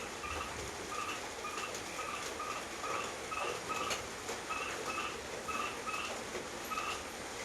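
Steady rain falling, with a short animal call repeating about twice a second over it.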